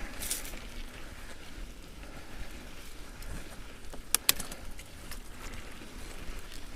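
Mountain bike climbing a gravel forest track: steady crunch and rattle of tyres on gravel and the rider's breathing, with two sharp clicks about four seconds in.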